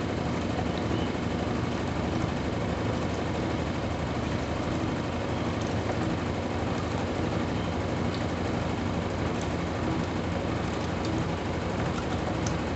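Brastemp Intelligent 7 kg washing machine running mid-cycle: a steady motor hum with drum and water noise and a few faint small clicks.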